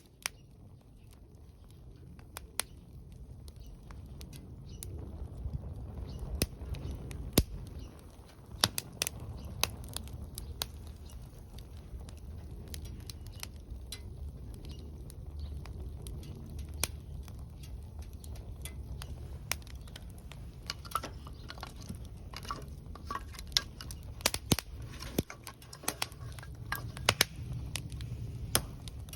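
Wood fire crackling in a fire pit, with irregular sharp pops that come thicker in the second half, over a steady low rumble.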